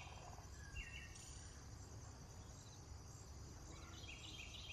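Faint nature ambience: birds chirping a few times, about a second in and again near the end, over a steady high insect-like hiss.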